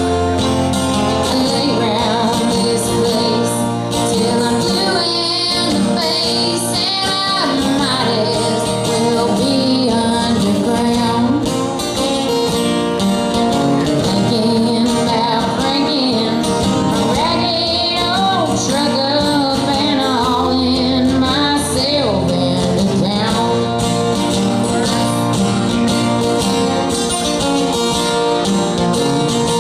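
Live country music: a woman singing with guitar accompaniment.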